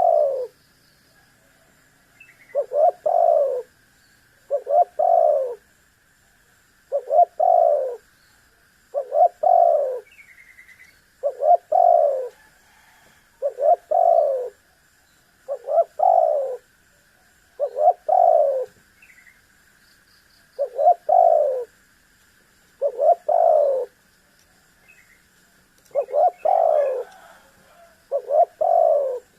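Spotted dove (tekukur) cooing over and over, a phrase about every two seconds, each made of a few short notes and a longer falling coo.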